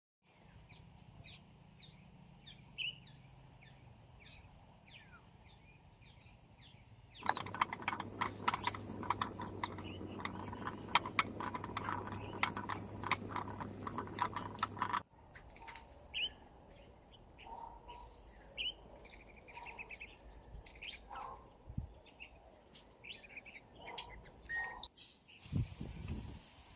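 Small birds chirping and calling. From about seven to fifteen seconds a louder, dense crackling of rapid clicks with a low steady hum takes over, then the bird chirps return.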